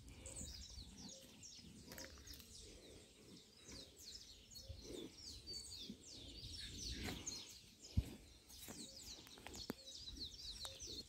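Birds chirping, with many short falling notes overlapping throughout. A single sharp knock comes about eight seconds in.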